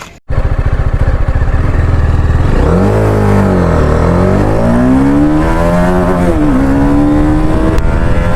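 Motorcycle engine running under way, starting abruptly: the revs fall and rise again about three seconds in, drop sharply a little past six seconds, then climb steadily.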